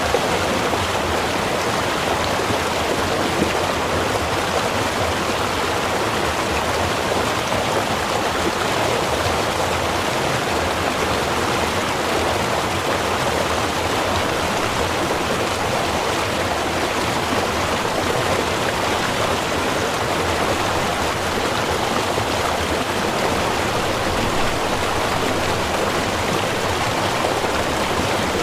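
Small river or stream running steadily, a continuous rushing of water without breaks.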